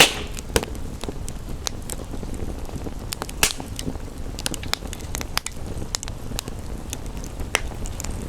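Wood fire in a fireplace crackling with scattered sharp pops, two louder ones at the start and about three and a half seconds in, over a steady low rush of rain.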